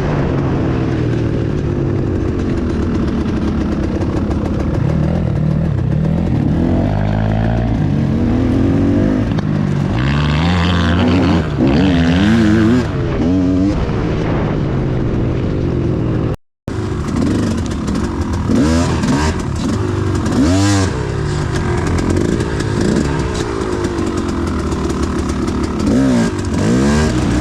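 Enduro dirt bike engines running hard, the revs rising and falling again and again as the throttle is worked, with a short break about sixteen seconds in.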